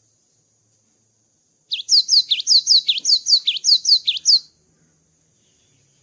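Cinereous tit (gelatik batu) singing one quick phrase of about a dozen repeated sweeping whistled notes, starting about two seconds in and lasting under three seconds: the full song of a bird freshly out of its moult.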